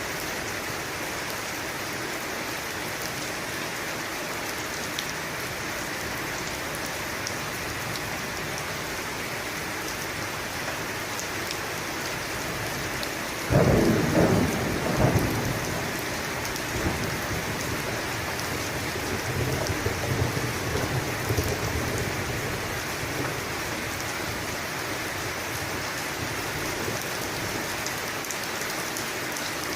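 Steady heavy rain falling, with a sudden thunderclap about halfway through that rolls on as low rumbling for several seconds before fading back under the rain.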